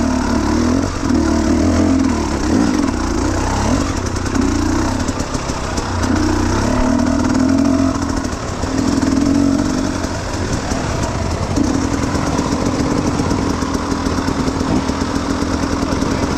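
Enduro dirt bike engine under way, the throttle opening and closing in repeated surges, then holding a steadier note for the last few seconds.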